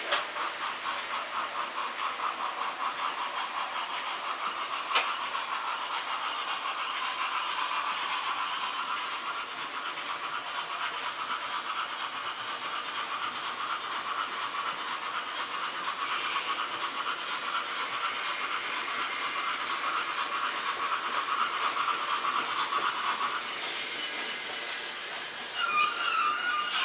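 HO-scale model trains running on the track, a steady whirr of small motors and wheels on rail. A fast regular beat sounds for the first few seconds, a single sharp click comes about five seconds in, and a brief pitched tone sounds near the end.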